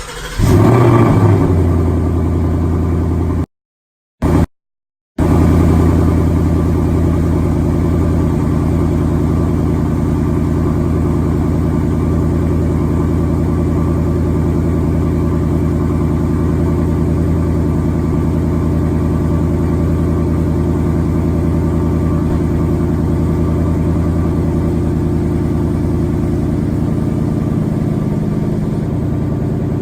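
2019 Mustang GT's 5.0-litre V8 cold-starting through its stock non-active exhaust: it catches with a flare right at the start, then settles into a steady cold idle. The sound cuts out completely for about a second and a half a few seconds in.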